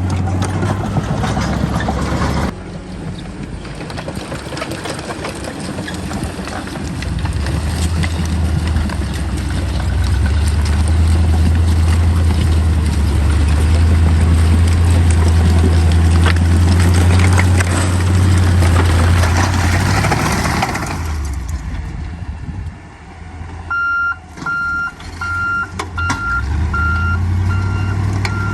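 Tucker Sno-Cat's engine running under load, pulling harder through the middle and dropping back about twenty seconds in. A few seconds later a reversing alarm starts beeping steadily, about one and a half beeps a second.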